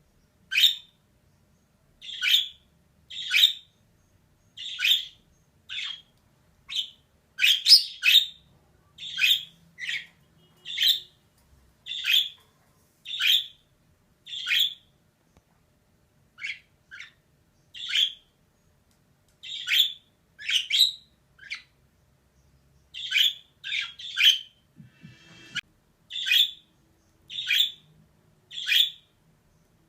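Female budgerigar giving short, sharp chirping calls, one about every second with a few brief pauses.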